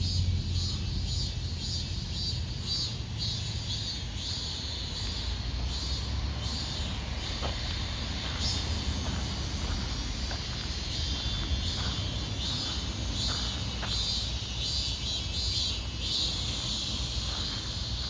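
Insects chirping in a quick, even pulse, about three to four a second, that turns into a continuous high buzz about halfway through, over a steady low rumble of distant road traffic.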